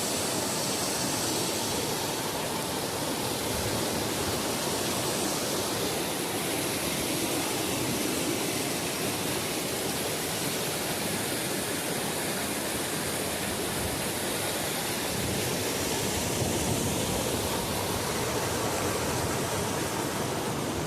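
Steady rush of fast-flowing mountain stream water, even and unbroken.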